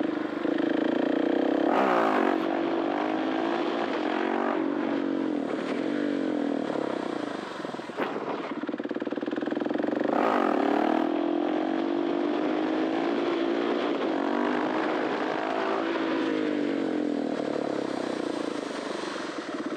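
KTM 690 SMC R's 693 cc single-cylinder four-stroke engine through an Arrow titanium exhaust, under way with the revs rising and falling repeatedly as the throttle is opened and closed, with sharp rises in pitch about two seconds in and again about ten seconds in.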